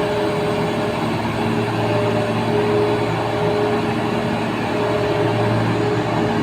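Caterpillar 100-ton dump truck's diesel engine running steadily, a constant low drone with a held whine above it.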